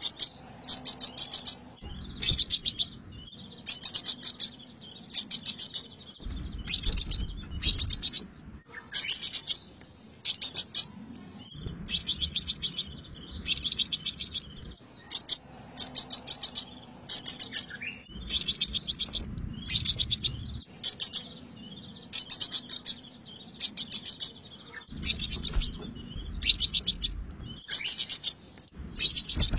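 Sunbird calling: quick series of high, sharp chips in bursts of a second or two, repeated over and over with short gaps.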